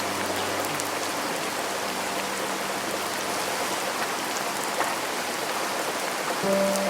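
Steady rain, a dense even hiss with scattered single drops ticking. A held piano note dies away over the first couple of seconds, and soft piano chords come back in near the end.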